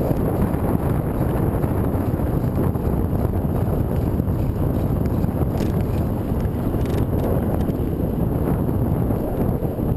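Strong wind rumbling and buffeting on the microphone while cycling into a headwind.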